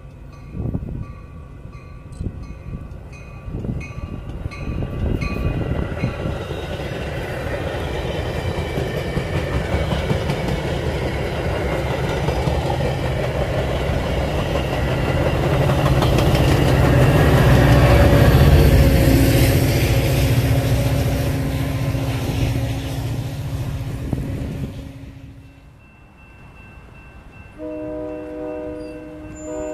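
Grade-crossing bells ringing as a Metra commuter train arrives, then the train passing close by with a low rumble of locomotive and wheels that builds to its loudest about two-thirds through and cuts off abruptly. Near the end a train horn sounds a held chord of several notes.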